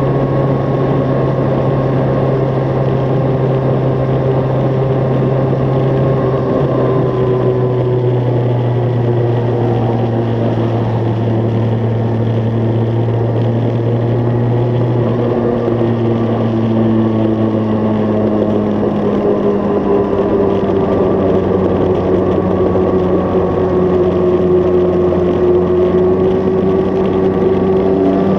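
Kawasaki ZX-10R's 998 cc inline-four engine under way on track, heard on board. The steady engine note drifts slowly lower through the middle and climbs again near the end, over constant wind rush.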